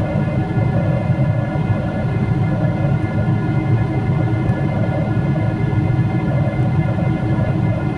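Steady cabin noise of a Boeing 777-300ER airliner in flight: a constant low rush and drone with faint steady whining tones above it.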